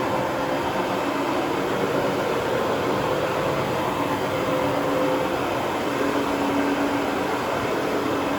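A motor running steadily with a continuous rushing noise. A low hum shifts in pitch partway through.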